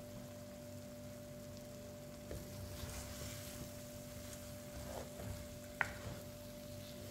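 Wooden spoon stirring soaked chana dal being roasted in oil and masala in a clay pot: faint sizzling and scraping over a steady low hum. A single sharp knock comes near the six-second mark.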